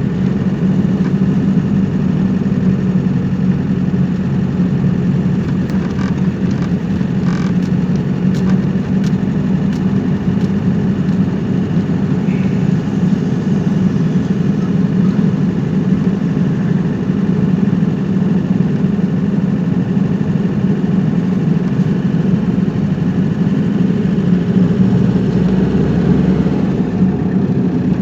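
Steady engine and road noise of a car being driven, an even low hum with no change in speed.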